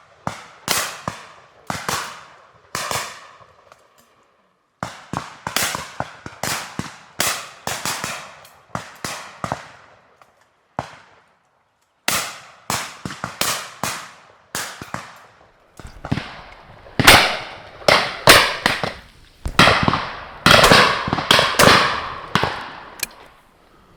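Shotguns firing repeatedly, many sharp reports in irregular clusters, each dying away with a short echo. The shots come thicker and louder in the second half.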